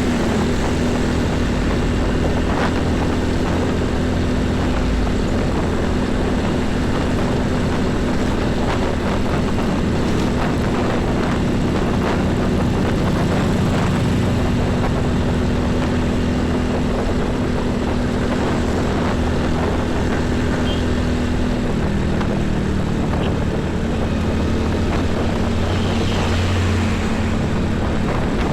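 Heavy diesel trucks on a highway: a steady engine drone over tyre and traffic noise, its note shifting about 22 seconds in.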